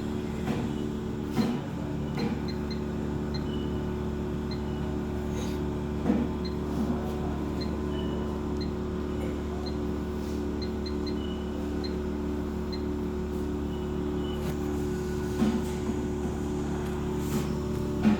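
Steady electrical machine hum, several low tones with a pulsing component, with faint short high beeps repeating now and then and a few brief knocks.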